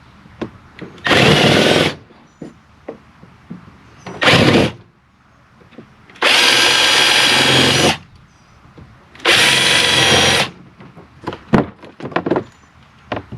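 Power drill drilling out the rivets that hold a truck's interior door handle, run in four bursts: two short, then two longer. Small clicks and knocks come between the bursts.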